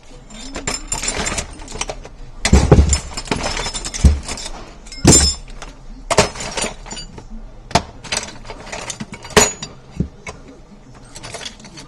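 Wire cutters and metal magazine parts being worked by hand: a series of sharp clicks, clinks and knocks, about seven spread through, with scraping and handling noise between them.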